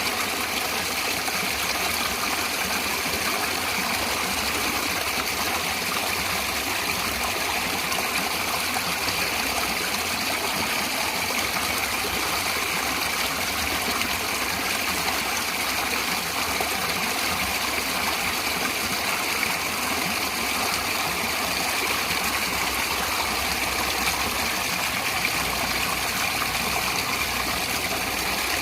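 Natural flowing water, a steady unbroken rush with no change in level.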